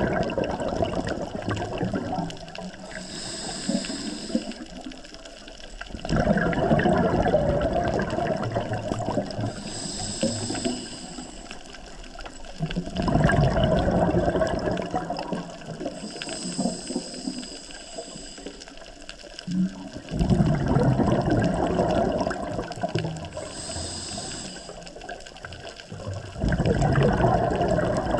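Scuba diver breathing underwater through a regulator: a bubbling exhalation of two to three seconds four times, about every seven seconds, with a short high hiss of the inhale in between.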